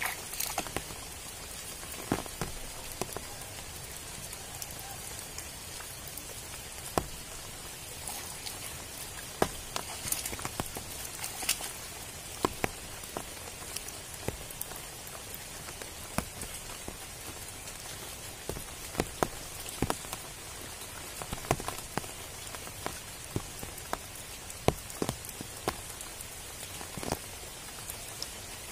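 Steady rain falling on standing water and leaves: an even hiss with many scattered, sharp drop sounds.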